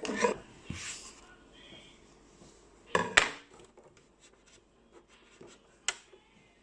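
Scattered handling noises: a few short knocks and rubbing sounds, the loudest about three seconds in and a sharp click near six seconds.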